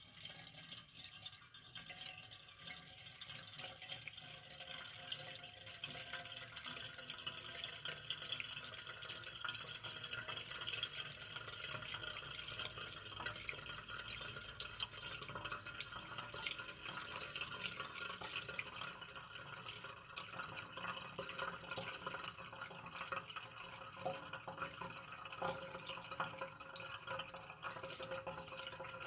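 Lamp oil pouring steadily from a jug through a funnel into the fuel tank of a Dietz Jupiter hurricane lantern.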